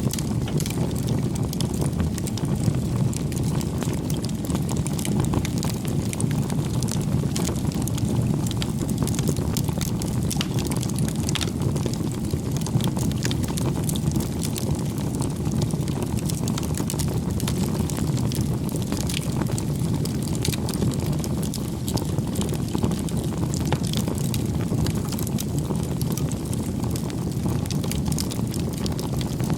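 Wood fire burning: a steady low rumble of flames with many small irregular crackles and pops.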